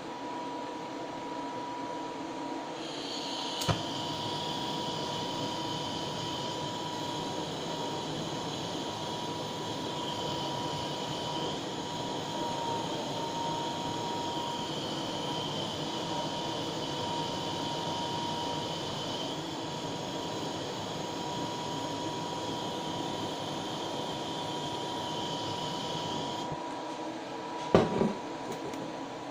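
Butane blowtorch flame hissing steadily as it reheats the surface of a small tin-silver solder ingot in its mold to melt out a crater. The hiss starts about three seconds in with a sharp click just after, and shuts off a few seconds before the end, followed by a couple of knocks.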